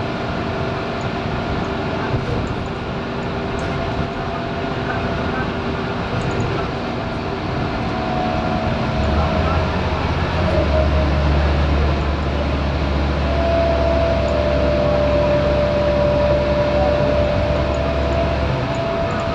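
Scania K230UB bus's five-cylinder diesel engine running under way, with a steady whine; about nine seconds in the engine works harder with a deep drone that eases off about a second before the end.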